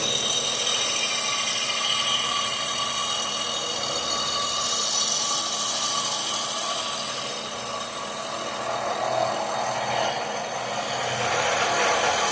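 Power tool running steadily on metal, with a constant whine of several high tones over a noisy hiss; the owner says its spindle bearings are getting loose and have developed float.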